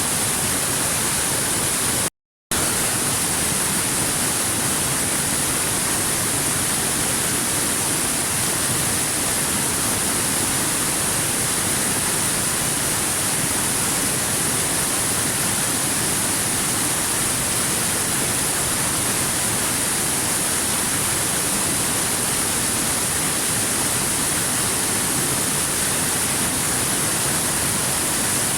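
Waterfall rushing as a steady, even roar of water noise, broken once by a sudden brief dropout to silence about two seconds in.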